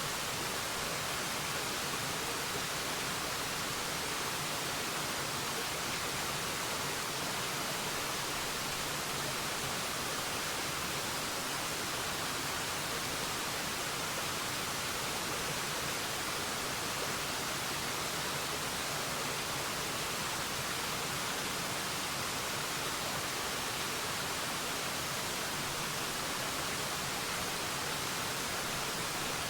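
Waterfall: a steady, unbroken rush of falling water, even and hissy, with no changes.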